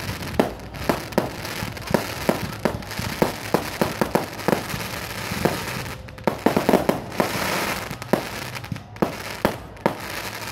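Aerial fireworks bursting in quick succession: a run of sharp bangs, several a second, over a hiss of crackling, with a thicker cluster of bangs a little past the middle.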